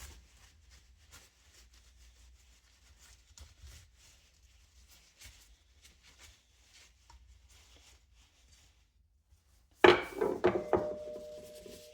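Faint handling and rubbing of box fan parts during reassembly, then near the end a single loud clank that rings on with two steady tones for about two seconds.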